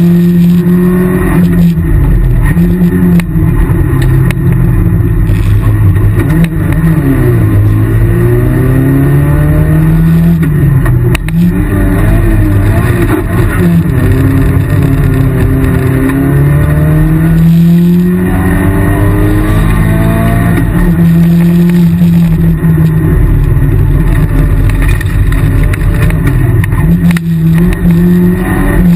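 Rally car's engine heard from inside the cockpit, revving hard on a stage: its pitch climbs through each gear and drops at the shifts, several times over.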